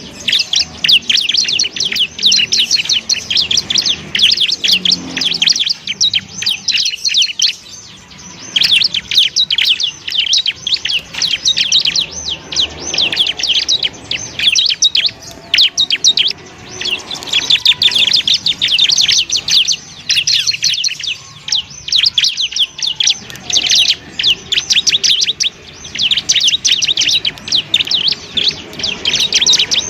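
Bar-winged prinia (ciblek) singing: long runs of rapid, high-pitched chirps broken by short pauses.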